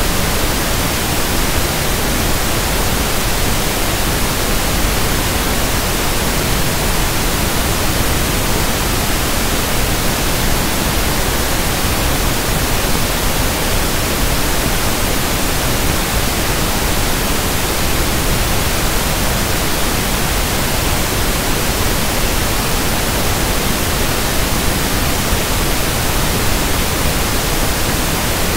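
Synthetic pink noise (1/f noise): a steady, even hiss spread across the whole range of pitch, with no change.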